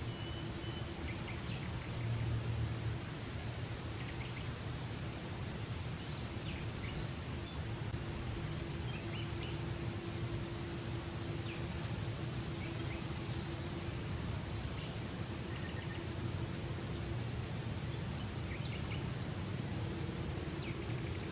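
Steady outdoor background noise with a low hum, and birds chirping briefly now and then.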